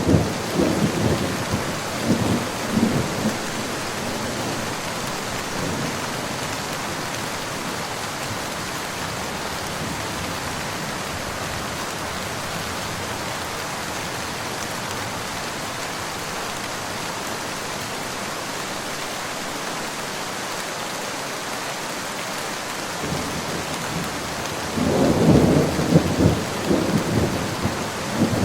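Steady rain falling, with thunder: a rumble dying away in the first few seconds, then another roll of thunder building about 24 seconds in and rumbling on near the end.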